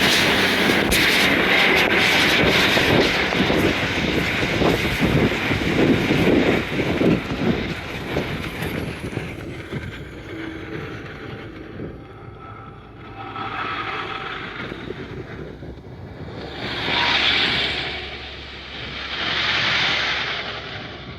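A train passing close by, a loud roar with rapid wheel clatter that fades away after about eight seconds. Three further, softer rushing swells follow, each rising and falling within a couple of seconds.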